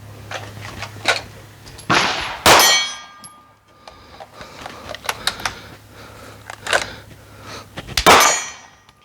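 A string of pistol shots with steel targets clanging and ringing as they are hit, about ten sharp reports at an uneven pace. The two loudest strikes, about two and a half seconds in and near the end, ring on briefly.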